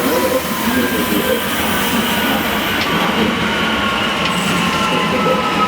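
A train running past on the tracks: a steady, dense rumble of wheels on rail with thin, high whining tones that slowly fall in pitch.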